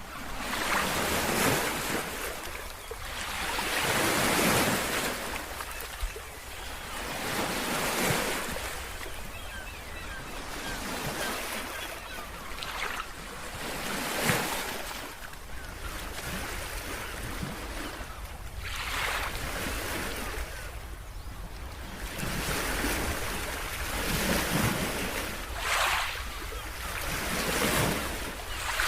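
Ocean surf: waves breaking and washing in, one swell of hiss after another every few seconds, over a steady low rumble.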